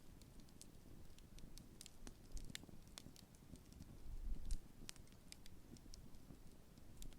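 Large wood campfire crackling, with irregular sharp pops and snaps over a soft low rumble, one louder swell of rumble about four seconds in. The fire is in its late stage, burning down.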